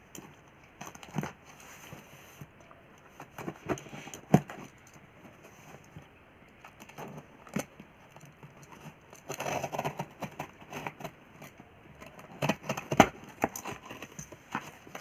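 Cardboard and paper packaging being handled and opened: scattered taps and knocks, with a stretch of rustling about nine to ten seconds in.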